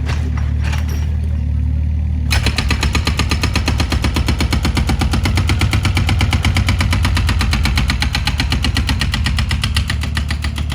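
Diesel engine running with a rapid, even hammering, about ten blows a second, typical of a hydraulic demolition breaker. The hammering starts about two seconds in and stops near the end.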